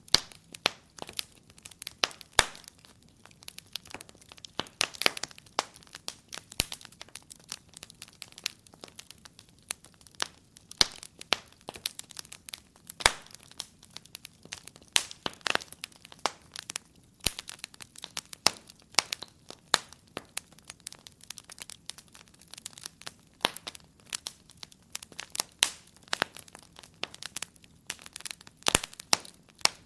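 Wood fire crackling in a fireplace: irregular sharp pops and snaps, several a second, some much louder than others, over a faint low hiss.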